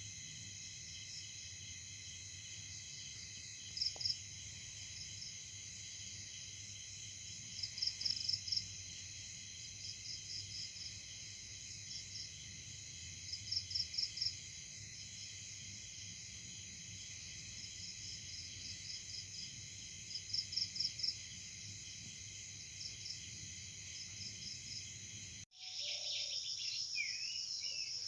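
Steady night-time chorus of crickets, with short pulsing chirps in groups every few seconds. About 25 seconds in it cuts off suddenly and gives way to bird chirps, with a lower call near the end.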